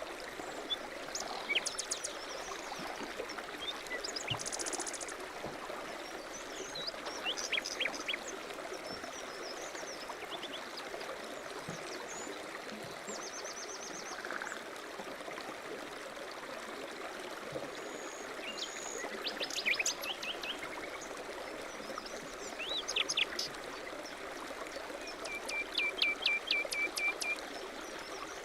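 A stream running steadily, with small birds calling over it in scattered chirps and trills, ending in a quick trill of repeated notes near the end.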